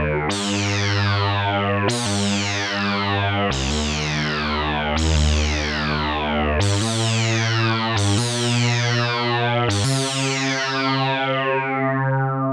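Sequential Prophet-10 Rev4 polyphonic analog synthesizer playing a preset with no effects: a run of sustained chords, a new one about every second and a half. Each chord starts bright, then its brightness sweeps down as it holds.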